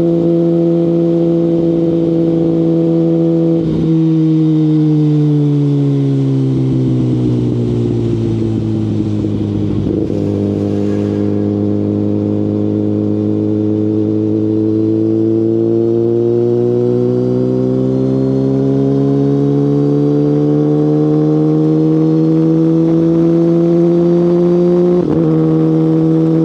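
2019 Kawasaki Ninja ZX-10RR inline-four running through a full Akrapovic Evolution Line carbon exhaust. The engine note holds steady, then falls over several seconds as the revs drop, holds low, and climbs steadily again. There is a brief break in the note about four seconds in and again near the end.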